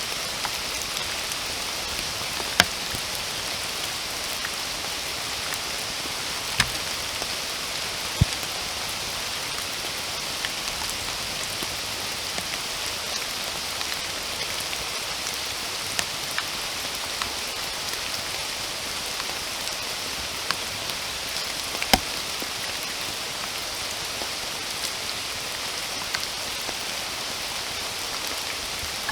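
Steady rainfall, an even hiss of many drops, with a few sharp, louder single drops striking now and then, the strongest about two and a half seconds in and again a little past twenty seconds.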